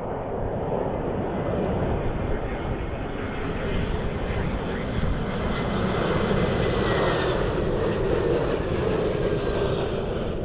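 Jet aircraft engines passing by, a rushing noise that swells in the second half with a faint whine that slowly falls in pitch.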